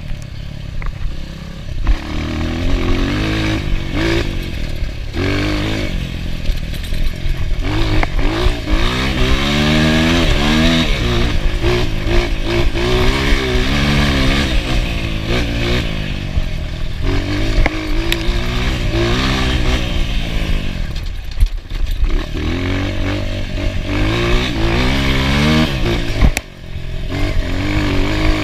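Enduro dirt bike engine revving up and easing off again and again while riding, with knocks and clatter from the bike.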